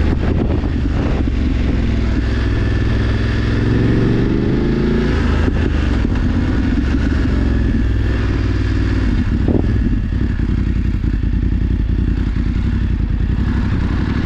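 BMW F 850 GS Adventure's parallel-twin engine running under way, rising in pitch over the first couple of seconds as it accelerates, then holding a steady, even beat.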